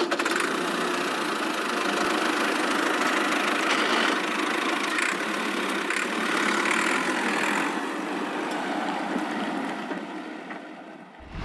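A steady engine-like running sound that cuts off suddenly near the end.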